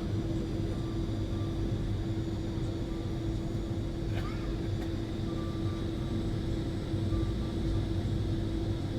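Airliner cabin noise during taxi after landing: a steady engine drone and low rumble with a constant hum, and a faint tick about four seconds in.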